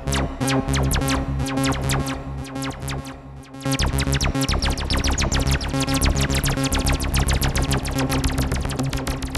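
Behringer TD-3-MO bass synthesizer playing a fast arpeggiated pattern of short repeating notes through effects. The pattern drops away briefly about three seconds in, then comes back busier.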